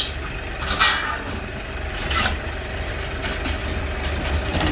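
Tractor's diesel engine idling steadily, with a couple of short knocks about one and two seconds in.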